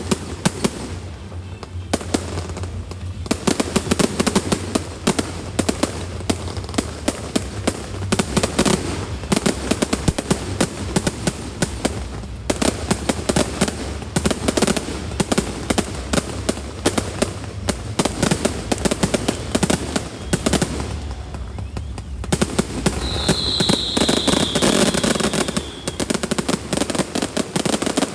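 A musical fireworks display going off in rapid succession, with dense crackling and repeated bangs over the show's music.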